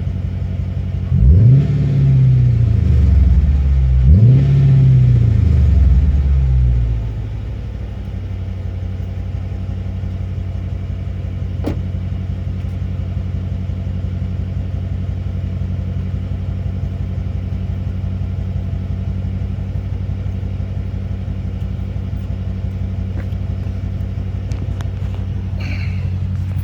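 2016 Dodge Charger R/T's 5.7-litre Hemi V8, through Borla Pro XS mufflers with an X-pipe and the resonators removed, blipped twice about a second and four seconds in. It then settles back to a steady idle.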